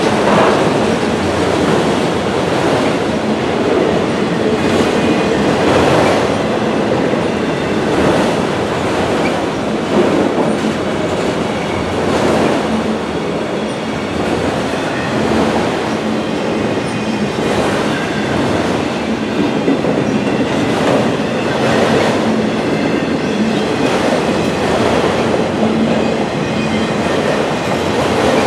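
Freight train of autorack cars rolling past close by, with a continuous rolling rumble and the clack of wheel trucks every second or two.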